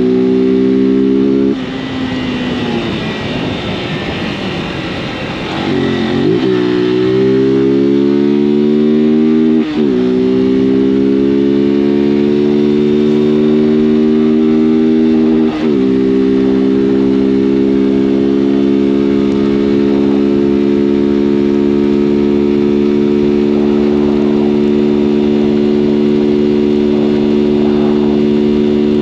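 Honda CG 160 Fan's single-cylinder four-stroke engine accelerating under a rider: its note climbs and drops abruptly at each of several gear changes over the first fifteen seconds or so, then holds a steady pitch while cruising.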